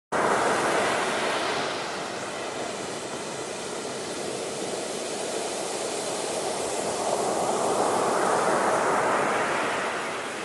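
Ocean surf: waves washing in, a swell right at the start and another building about seven seconds in, then easing off.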